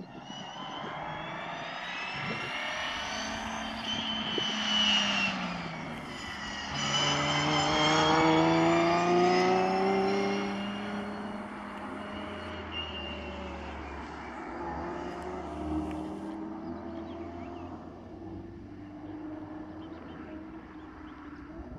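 Race-prepared Nissan 350Z's engine under hard acceleration on a circuit, rising in pitch through the revs. It drops sharply about six seconds in, climbs again to its loudest around eight to ten seconds as the car passes, then fades to a lower, quieter note as it drives away.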